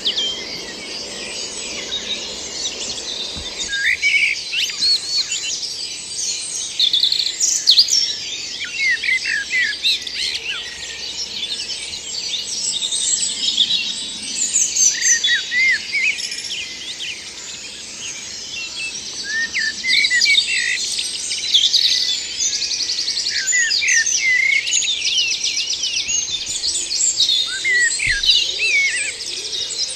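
Woodland dawn chorus: many songbirds singing at once, with overlapping whistles, chirps and rapid trills throughout. A faint low hum stops about three and a half seconds in.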